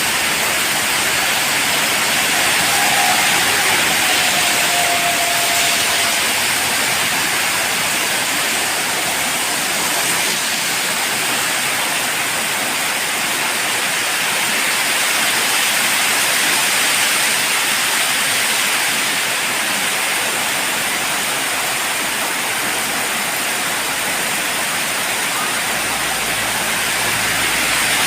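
Heavy tropical rain pouring down in a steady, loud hiss, with the wind picking up.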